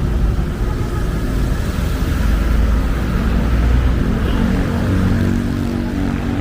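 Loud, steady low rumble of vehicle traffic with engines running.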